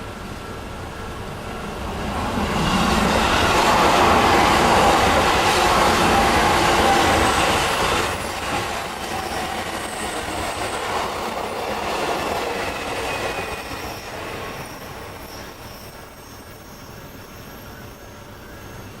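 Odakyu electric commuter train passing over a level crossing: its noise builds about two seconds in, stays loudest for around five seconds, then eases and fades away.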